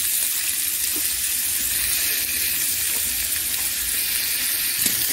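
Julienned potatoes and green chillies sizzling steadily as they fry in hot oil in a metal wok, with a light tap of the metal spatula about a second in and again near the end.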